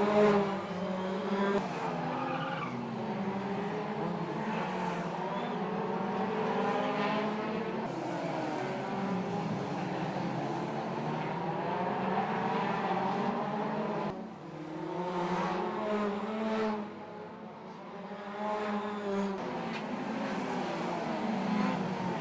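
A pack of 2-litre hot rod race cars lapping an oval, their engines revving up and down and overlapping as they pass. The level dips briefly about two-thirds of the way through before the cars come round again.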